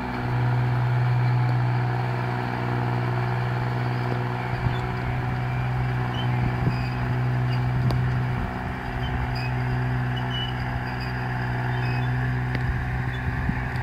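Belarus 320 compact tractor's diesel engine running steadily at an even speed, with a few short knocks mixed in.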